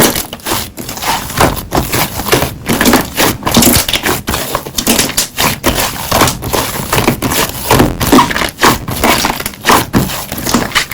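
Slime being squeezed and worked by hand, with dense, irregular crackling pops.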